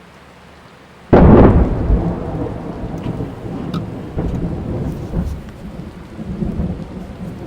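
A thunderclap breaks suddenly about a second in and rolls on as a low rumble that fades over the next several seconds, heard from inside a car. Rain patters steadily on the car throughout.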